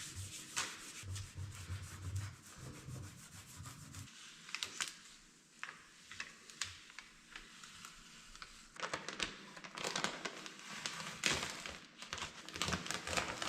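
A custom sticker and its transfer tape being rubbed down by hand onto a contoured excavator body panel: dry rubbing and crinkling of the film with scattered small ticks, busier in the second half.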